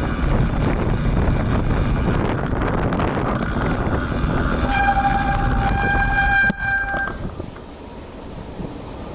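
Wind and road noise rushing over an action camera's built-in microphone on a moving road bike, with one steady horn-like tone held for about two seconds past the middle. Near the end the rushing drops off as the bike slows.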